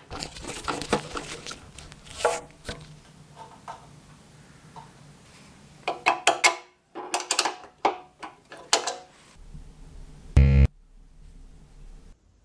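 Workshop handling sounds: hard parts clicking, knocking and clinking with brief metallic ringing, then a short, loud mechanical buzz about ten seconds in.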